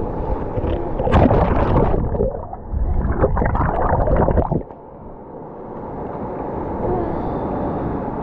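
Ocean water rushing and churning against the microphone, with two loud surges in the first half, then a quieter steady wash.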